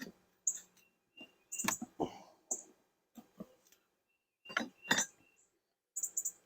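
Irregular clicks and knocks of wooden beehive frames and a hive tool being handled, about a dozen sharp taps, loudest about five seconds in.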